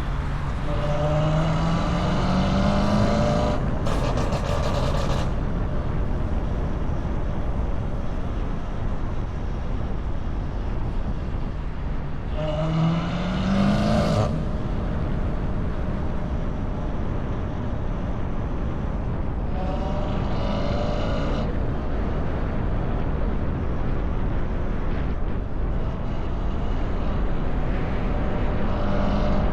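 Car engine running over a steady low rumble, its pitch rising twice as it accelerates.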